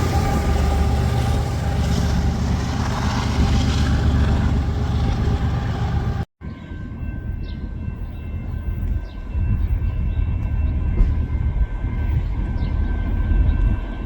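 Train passing close by: a loud, steady rumble of rail cars rolling on the track. It cuts off abruptly about six seconds in and gives way to a quieter low rumble with a few thin steady tones and faint short chirps.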